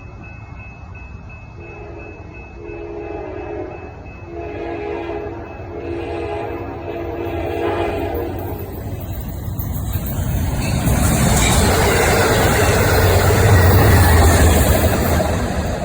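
Train horn sounding a series of blasts as a train approaches, then the train's rumble growing loud as it passes close by.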